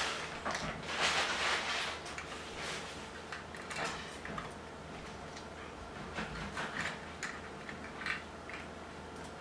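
Small plastic Lego parts being handled and packed away: a rustling, rummaging stretch in the first two seconds, then scattered light clicks and knocks of plastic.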